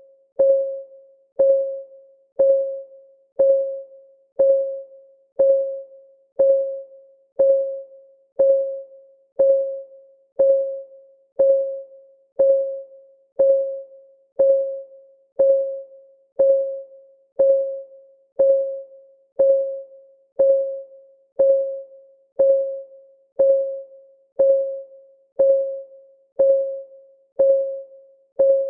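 Countdown timer's clock ticking, one tick each second, each a short click with a brief ringing tone that dies away before the next.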